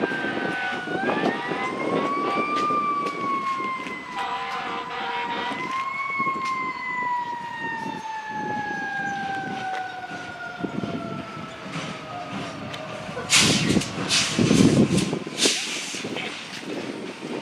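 Emergency-vehicle siren: a single wailing tone that rises, dips, rises again, then winds slowly down in pitch over several seconds. Near the end come several short, loud blasts of noise.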